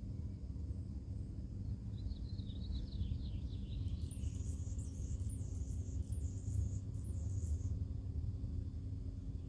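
Birds chirping over a low steady rumble. About two seconds in comes a descending run of chirps, followed by a high, rapid twittering that lasts about three and a half seconds.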